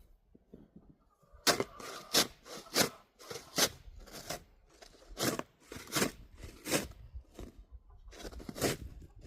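Deep snow crunching in a run of about a dozen sharp, irregular strokes, as it is trodden or pushed aside.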